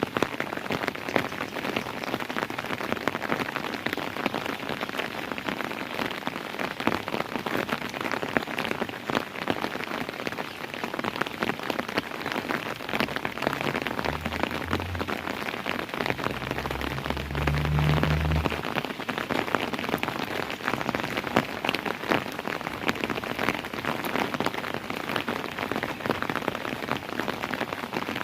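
Steady rain falling on a surface, a dense patter of individual drops. A low rumble rises under it about fourteen seconds in and fades out near eighteen seconds.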